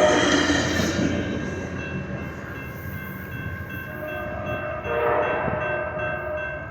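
Sounder commuter train pulling away, its rumble fading as it recedes, with a brief horn about five seconds in.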